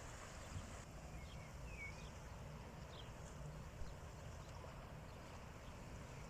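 Faint, steady low wash of the sea, with a few short bird chirps in the first half.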